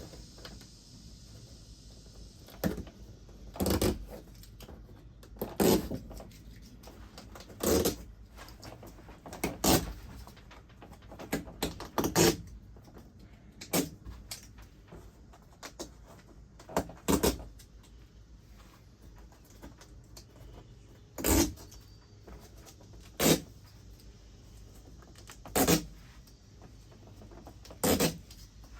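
Short knocks and thuds of hands pressing and patting Bedrug liner panels onto the truck bed wall, coming at irregular intervals about every two seconds.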